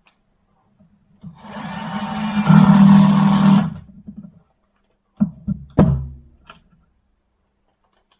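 Milwaukee C12 ID-22C cordless impact wrench, fitted with a replacement motor, test-run: the trigger is held for about two and a half seconds as the motor spins up, then blipped briefly about five seconds in.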